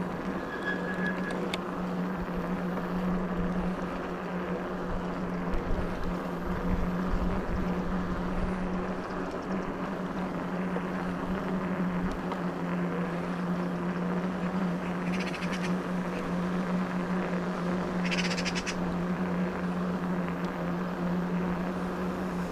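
Electric bike riding at a steady pace: a constant motor hum over wind and tyre noise, with two short spells of rapid ticking partway through.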